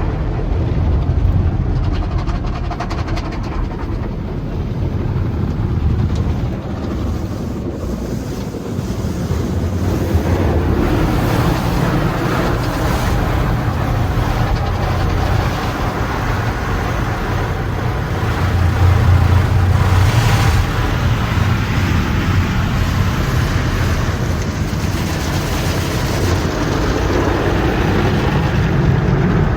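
Sonny's tunnel car wash equipment working over a car, heard from inside it on the conveyor: a steady low rumble with water spraying and washing against the body. The sound grows fuller from about ten seconds in, with a stronger hissing spray just before twenty seconds.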